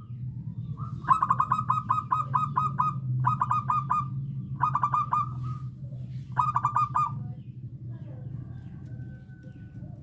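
Zebra dove (perkutut) singing: four quick runs of short staccato cooing notes, the first and longest about a second in, the last ending around seven seconds in. A steady low hum runs underneath.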